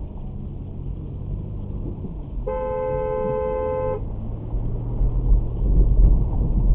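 Car horn sounding one held blast of about a second and a half, two notes together, over steady road and engine noise. A heavy low rumble swells up in the last couple of seconds.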